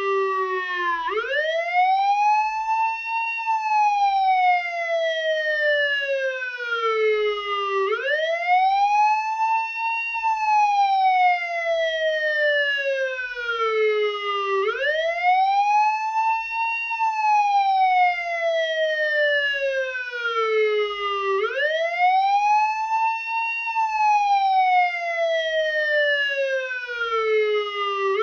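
Police car siren wailing in slow sweeps: the pitch climbs quickly for about two seconds and then sinks slowly for about four, four times over, each cycle about seven seconds long.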